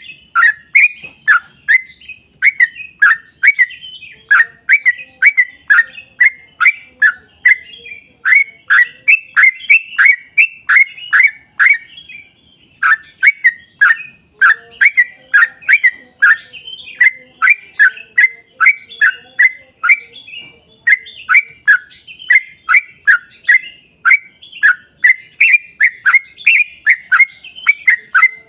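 Yellow-vented bulbul (trucukan) singing a long rapid run of short, downward-sliding chirps, about three or four a second, broken twice by brief pauses.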